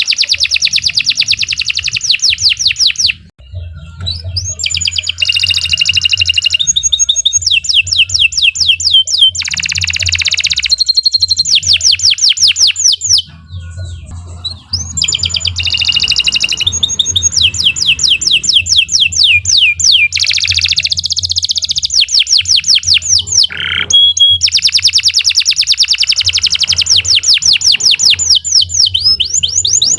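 Domestic canary singing a long, continuous song of rapid trills and rolls, phrase after phrase, with two short breaks. A steady low hum runs underneath.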